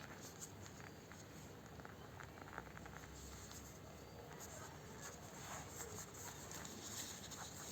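Sheet of origami paper being handled and folded, with faint crinkling and scattered small taps and clicks as the creases are pressed.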